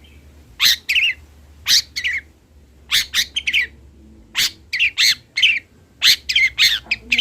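Young long-tailed shrike (cendet) giving short, sharp chirps and harsh notes, some slurring quickly downward, repeated irregularly about one to two a second as it practises its song.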